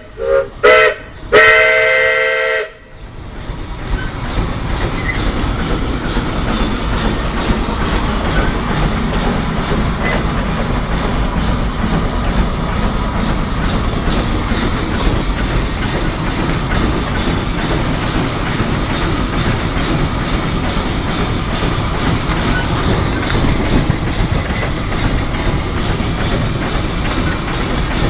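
Heisler geared steam locomotive's whistle gives a short blast and then a longer one, about a second in. It is followed by the locomotive's steady running rumble and rail clatter, heard from the cab.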